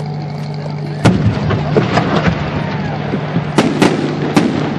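Aerial fireworks going off: a sudden sharp burst about a second in, followed by dense crackling and a series of separate sharp cracks, over a steady low hum.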